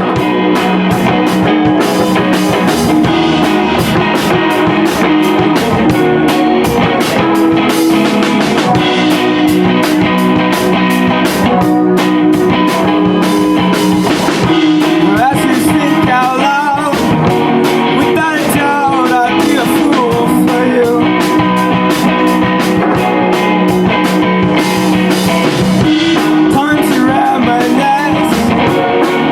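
Live rock band playing: electric guitar over a drum kit keeping a steady, fast beat.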